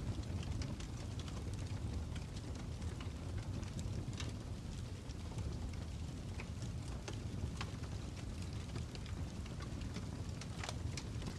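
Fire crackling: a steady low rumble with scattered small pops and snaps at irregular intervals.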